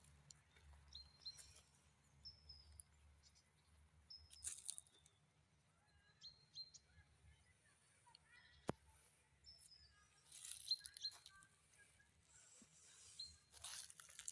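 Faint birds chirping: short, high, slightly gliding notes repeated on and off, with a few brief rustles and one sharp click about nine seconds in.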